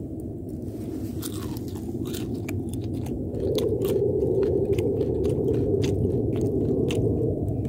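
A person chewing a mouthful of dumpling close to the microphone, with many small sharp clicks over a steady low noise.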